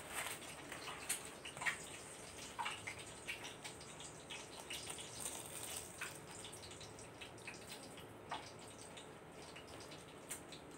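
Close-up eating sounds: a person biting into and chewing a cheese-filled dynamite chili roll, with scattered small wet mouth clicks and the light rustle of a paper napkin.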